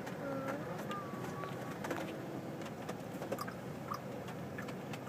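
Steady noise inside a car, with scattered light clicks and a few brief, faint voice-like tones in the first few seconds.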